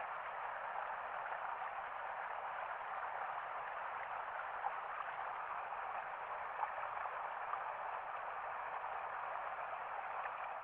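Steady rushing of running water, even throughout, with a few faint ticks.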